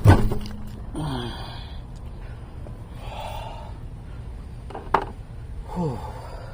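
A sharp knock, then short breathy grunts of effort with a falling pitch about a second in and again near the end, with another sharp click just before the second grunt; typical of a man forcing a plug insertion tool into a punctured tire.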